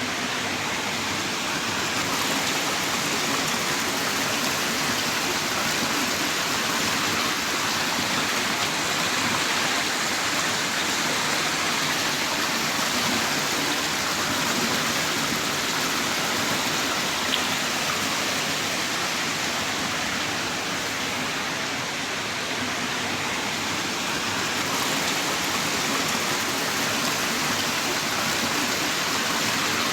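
Heavy rain pouring steadily in a dense, even hiss, with no distinct drops or thunder standing out.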